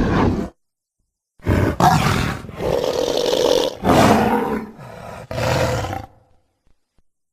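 Made-up creature roars for an Andrewsarchus. A short roar cuts off about half a second in. After a pause comes a run of several loud roars and growls, back to back, which fades out about six seconds in.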